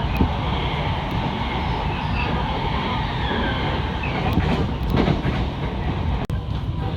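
Electric commuter train running, heard from inside the passenger car: a steady rumble with a few clicks from the wheels over rail joints.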